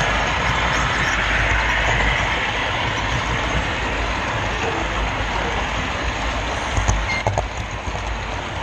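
Model train rolling along the layout's track, heard riding aboard a GoPro camera car: a steady rumble and hiss of wheels on rails, with a few sharp clicks about seven seconds in.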